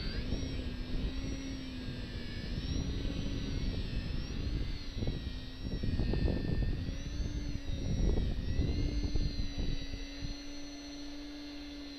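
Electric motor and propeller of a Parkzone VisionAire RC plane whining in flight, the pitch wavering as the throttle changes. Gusts of wind rumble on the microphone and ease off near the end.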